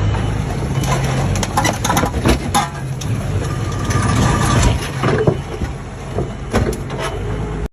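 A vehicle engine running steadily, with an irregular run of clicks, knocks and scraping noises over it.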